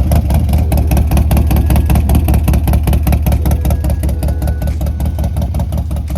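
Harley-Davidson Road Glide's S&S 131 cubic-inch V-twin, breathing through Fuel Moto exhausts, idling loudly with a steady, even train of exhaust pulses.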